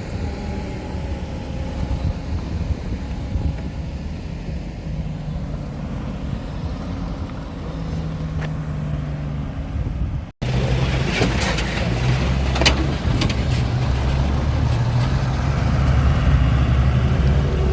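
Motor vehicle driving on a rough, freshly graded road: steady engine hum and road noise, with a few knocks and rattles. The audio cuts out for an instant about ten seconds in, then carries on slightly louder.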